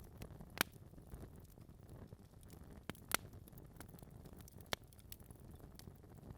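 Wood fire crackling in a fireplace: a few scattered sharp pops from the burning logs, the loudest about half a second in and about three seconds in, over a low, steady rumble of the flames.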